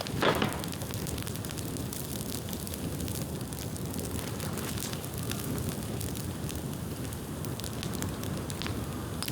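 Bonfire of dry bamboo burning: a steady low rushing of flame with frequent small crackles and snaps, and one louder brief burst about a quarter second in.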